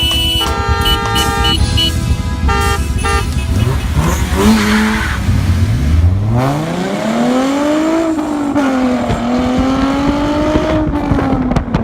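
A car engine revving hard, climbing steeply in pitch and then held at high revs before it drops off near the end. It is preceded by a few seconds of short, steady horn-like tones.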